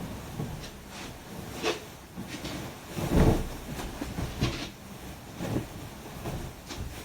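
Irregular rustling and soft bumps from someone handling things around a room, with the loudest bump about three seconds in.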